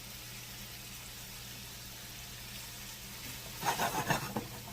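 Thin-sliced chicken thighs frying in a pan with a steady, soft sizzle, and a brief louder burst of noise about three and a half seconds in.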